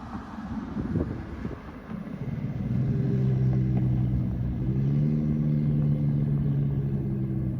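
Dodge Charger's V6 through a straight-piped exhaust with Super 10 mufflers. It rumbles quietly at first, then settles from about two seconds in into a steady exhaust drone at a nearly constant pitch, a little louder midway.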